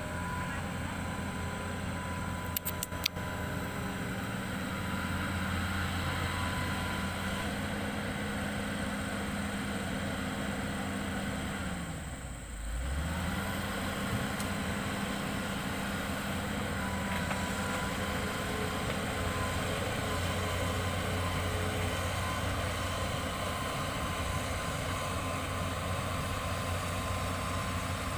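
Hitachi excavator's diesel engine running steadily. About halfway through, its pitch dips briefly and then comes back up. A few clicks come about three seconds in.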